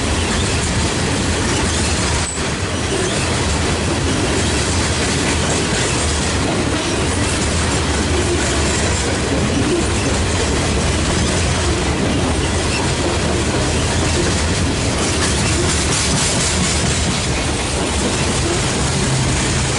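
Loaded coal hopper cars of a freight train rolling past, their steel wheels running on the rails, steady and loud.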